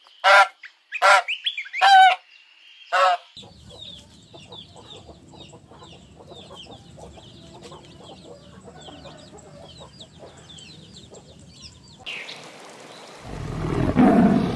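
Geese honking loudly for about three seconds, then a flock of fowl chirping and calling steadily over a faint low background. Near the end a noisy rush swells up loudly.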